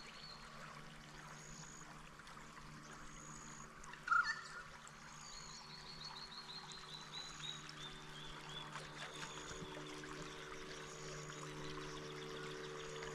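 Water trickling and lapping under a steady low electric hum from a radio-controlled tugboat's motor, which grows stronger after about nine seconds. Birds call throughout: short high notes about once a second, a descending run of chirps, and one brief louder call about four seconds in.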